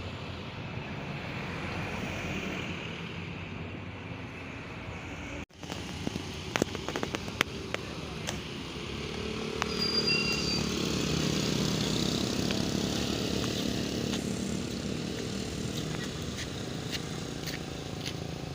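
Roadside traffic noise with vehicle engines running and passing. About five and a half seconds in the sound cuts out abruptly, then a run of sharp clicks and knocks follows, and the engine noise swells a little later.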